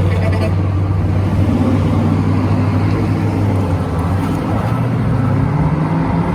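Car engine running loud with a deep, steady note, its pitch climbing after a few seconds as the car accelerates away.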